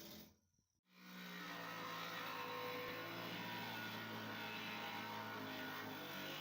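Samsung washing machine running with a steady motor hum, after a brief break in the sound shortly after the start; no knocking is heard.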